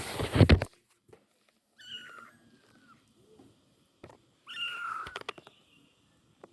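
A domestic cat meowing twice, about two seconds in and again near five seconds in, each call about a second long. At the very start there is a brief loud rush of noise.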